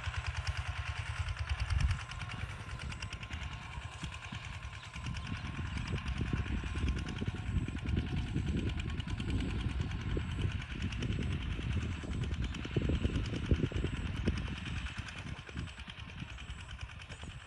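Kubota ZT140 single-cylinder diesel two-wheel tractor engine running while plowing. About two seconds in, its even, regular putter gives way to a rougher, uneven sound that lasts to the end.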